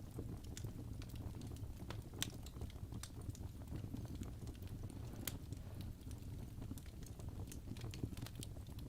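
Wood fire burning in a fireplace: a steady low rumble of flames with irregular sharp crackles and pops from the burning logs, the loudest pops a little past two seconds in and about five seconds in.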